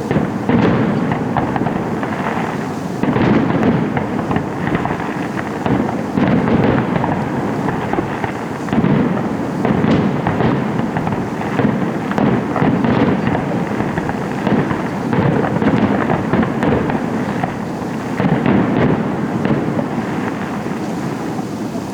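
Fireworks display going off in a dense, continuous volley: a steady crackle and rumble with heavier booms every two to three seconds.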